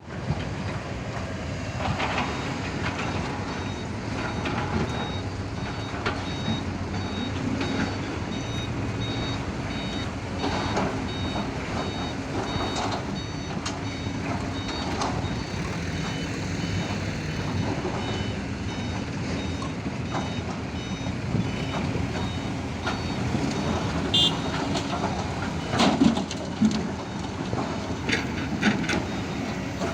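Diesel engines of excavators and a dump truck running at a mine, with a machine's reversing alarm beeping repeatedly through much of the first two-thirds. Scattered knocks sound over the engine noise, the loudest about three-quarters of the way through.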